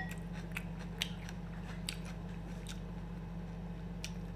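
A man chewing a mouthful of tomato and onion salad close to the microphone: scattered small wet mouth clicks over a steady low hum.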